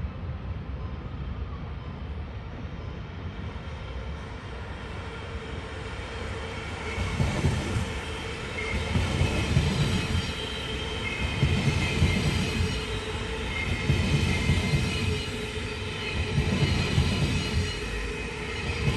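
Railway train passing on the tracks: a low rumble that, from about seven seconds in, swells every two and a half seconds or so as each car goes by, with a high wheel squeal over it.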